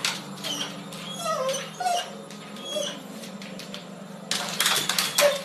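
A small pet giving a series of short, high, squeaky whimpering cries that glide up and down in pitch, over a steady low hum; a louder rustling noise comes in near the end.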